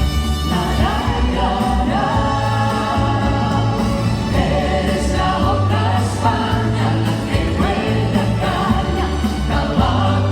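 Live vocal group singing in close harmony over a band accompaniment with a steady bass line.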